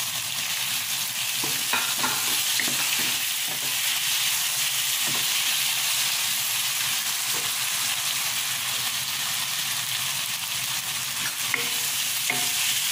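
Prawns and bottle gourd in a thick chilli masala sizzling in a pot while a wooden spatula stirs them, with a steady hiss and a few light knocks.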